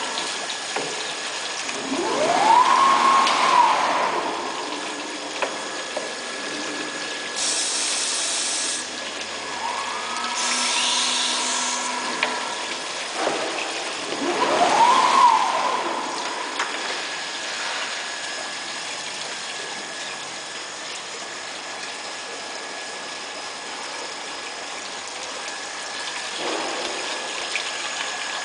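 Horizontal CNC glass drilling machine working with water running over the glass. A motor whine rises and falls twice, with short hisses in between.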